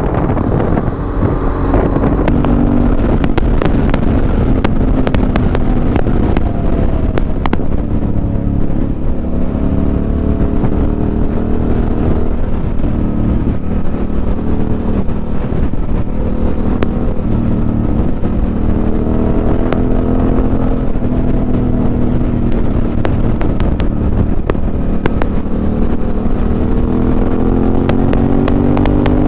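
Yamaha Tenere 700's parallel-twin engine running on the move, its pitch slowly rising and falling with the throttle and climbing again near the end.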